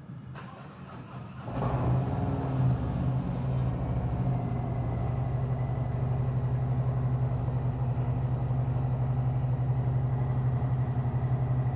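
Harley-Davidson Road Glide V-twin engine starting about a second and a half in, then idling steadily with a low, pulsing beat.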